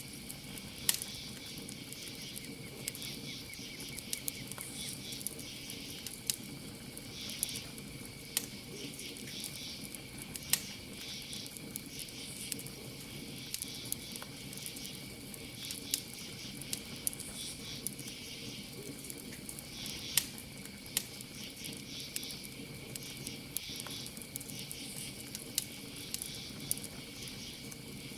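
Campfire wood crackling, with irregular sharp pops every second or two, over a steady high chirping of crickets.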